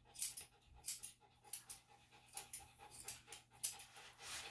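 Senior Bichon–Shih Tzu cross panting in short, regular breaths, about three every two seconds.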